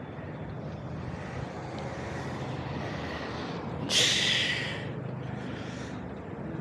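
Steady wind and road noise on the microphone while riding a bicycle, with one short, loud hiss about four seconds in.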